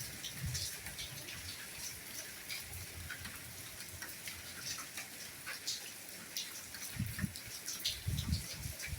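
Steady rainfall with many separate drops ticking against a constant hiss. A few dull low thuds come in near the end.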